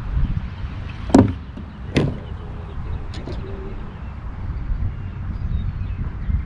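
Strong wind buffeting the microphone in a low, fluctuating rumble, with two sharp knocks about a second apart near the start.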